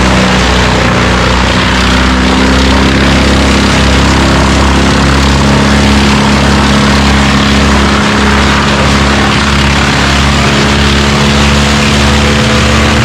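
An engine running steadily at one constant speed, without revving up or down.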